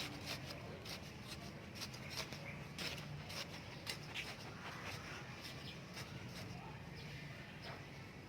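Irregular light clicks and scratching from hand garden work, over a low steady hum.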